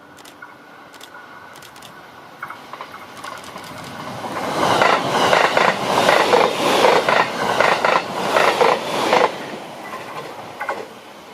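A train passing close by, its wheels clattering over rail joints in a rapid run of clacks that builds up about four seconds in and dies away after about nine seconds.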